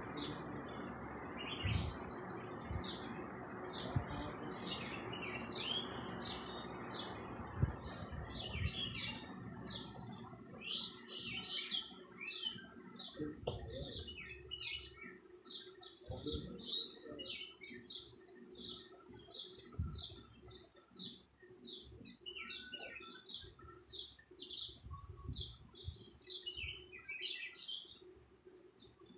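Small birds chirping: many short, quick chirps from several birds at once, growing busier after about ten seconds. A low, steady background noise sits under them for the first eight seconds or so, then fades out.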